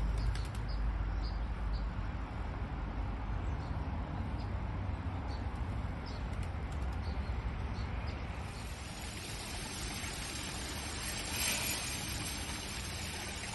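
Steady outdoor background noise with a low rumble, and faint short bird chirps repeating through the first half. The hiss grows brighter after about eight seconds.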